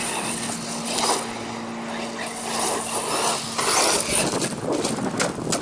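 Brushless electric RC truggy (DHK Maximus with a Leopard 4074 2000Kv motor) driving on dirt in several bursts of throttle, the motor giving a high whine with each burst, as it goes over a jump.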